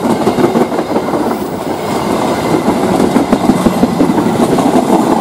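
Passenger coaches of the Walahar Express train rolling past close by, the wheels rumbling and clattering steadily over the rails.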